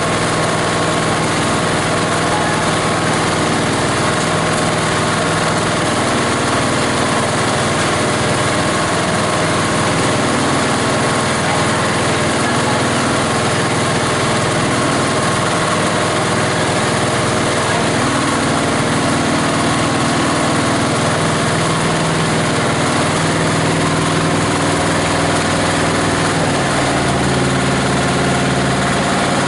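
18 HP diesel engine of a plastic-grinding machine running steadily, its pitch shifting slightly a few times.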